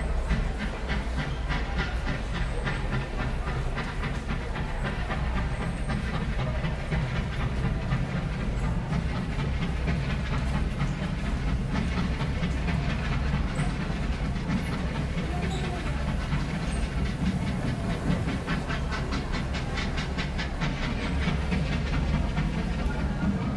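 Train at a station: a steady low rumble with hiss and rapid, even clicking from the wheels and cars, with a few brief high squeaks.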